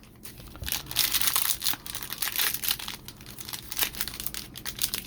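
Plastic wrapper of a trading-card pack crinkling and tearing as it is ripped open and handled, a dense, irregular crackle.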